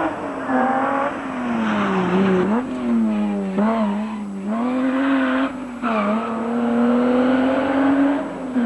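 Rally car engine revving hard through a tight bend. The revs sag at first, then pick up again with several brief dips, and climb steadily near the end before a short drop.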